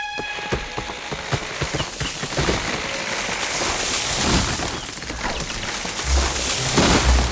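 Cartoon chainsaw running and cutting into a tree, a dense rattling buzz that starts abruptly and grows louder midway, with background music.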